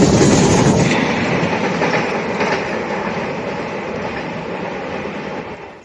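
A train running on the rails with its wheels clattering, slowly fading as it moves away, then cut off abruptly near the end.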